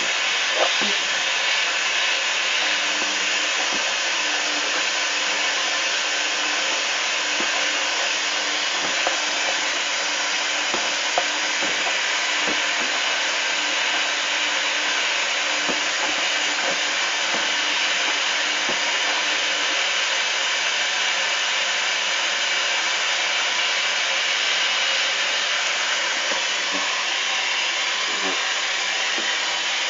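Hoover washing machine on its final rinse: a steady rushing hiss, with scattered light knocks during roughly the first twenty seconds.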